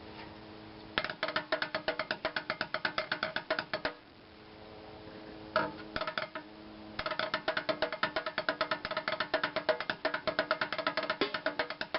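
Bucket drumming: rapid, even strikes on buckets and a paint can. A fast run starts about a second in and stops near four seconds, a few loose hits follow, then a longer fast run starts at about seven seconds.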